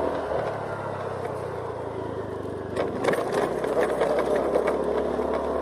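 Honda Scoopy scooter's small engine running while riding, its note shifting shortly after the start. From about three seconds in a louder, rough, clattery noise joins it.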